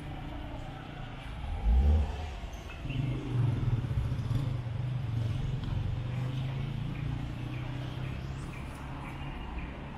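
Street traffic: a low thump about two seconds in, then a nearby vehicle engine running steadily from about three seconds, easing off near the end.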